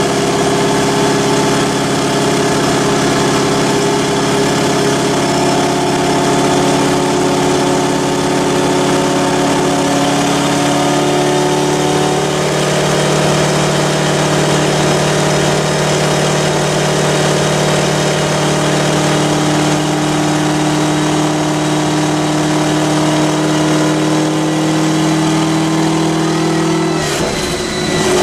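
Chevrolet Corvette ZR1's supercharged 6.2-litre LS9 V8 running steadily at light throttle on a chassis dyno, driving the rear wheel on the roller. The engine note creeps slowly upward, then dips briefly and changes near the end.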